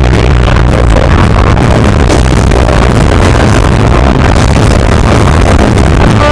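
Punk rock band playing live at full volume, distorted guitars, bass and pounding drums, clipped and overloaded by the recording.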